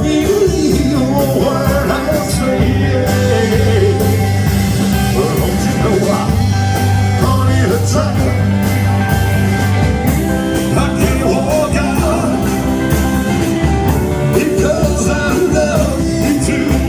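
Live rock-and-roll band playing loud and steady, with no words sung.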